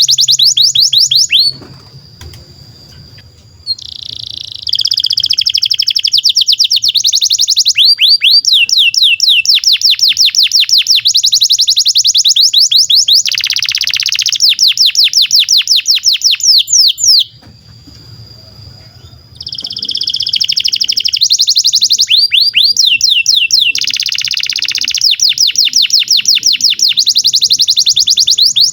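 Domestic canary singing long rapid trills of repeated notes, switching from one trill to another, with two short pauses of about two seconds.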